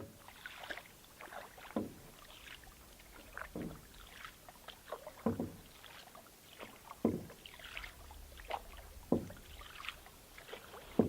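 Canoe paddle strokes in the water, one stroke about every two seconds, with light splashes and drips between them.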